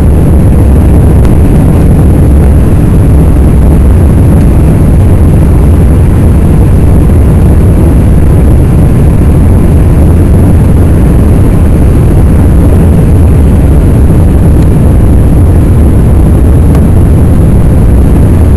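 Airliner jet engines at takeoff power, a steady loud low rumble that holds level without rising or falling.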